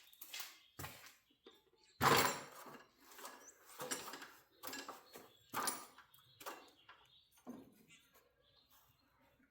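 Irregular knocks and clatter of hands and tools working the garage door's torsion spring hardware, the loudest knock about two seconds in, as the cable drums are loosened and the shaft is shifted to free the spring.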